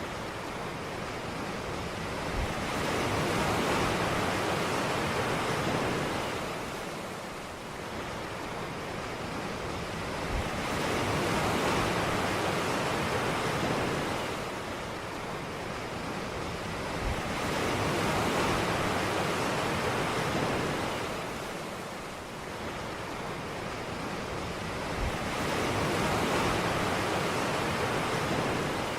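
Ocean waves breaking on a beach and washing in, each wave opening with a soft thud and swelling to a rush of surf, about every seven to eight seconds.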